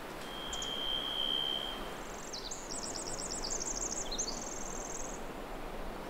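Songbirds singing in forest: one long, steady, high whistled note, then a fast, high, jumbled trill lasting about three seconds, over a steady background hiss.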